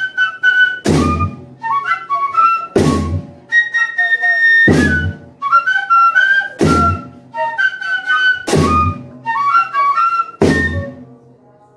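Banda de pífanos playing: bamboo fifes carry a high, lively melody over deep bass-drum strikes about every two seconds. The tune ends near the end.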